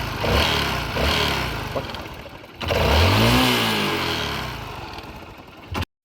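Motorcycle engine with a homemade plastic-bottle exhaust attachment, revved in two short blips and then one longer rev that rises and falls in pitch about three seconds in and dies away. The sound cuts off abruptly near the end.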